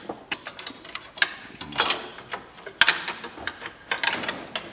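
Hand tools clicking and clinking against metal engine parts, with irregular sharp clicks, the loudest about a second in and near three seconds in, as a fitting is worked loose.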